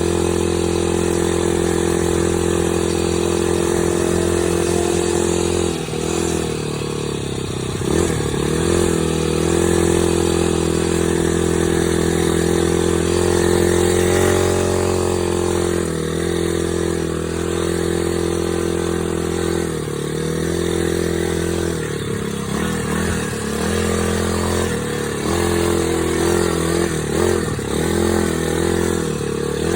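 Dirt bike engine running steadily under way, with its pitch dipping briefly and rising again several times as the throttle is eased off and reopened.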